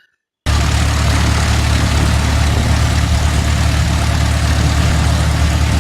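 Loud steady engine drone with a hiss over it, starting suddenly about half a second in.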